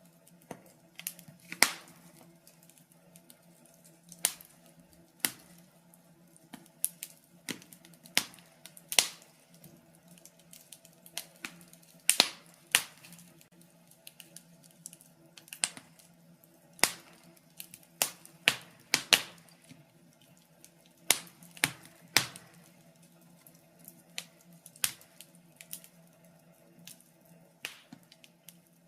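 Wood fire crackling, with irregular sharp pops and snaps, sometimes several in quick succession, over a faint steady low hum.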